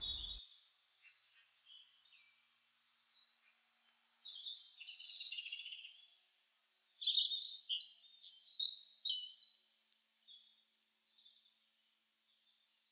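Birds singing: a string of quick high chirps and warbled phrases, busiest from about four to ten seconds in, then a few scattered notes.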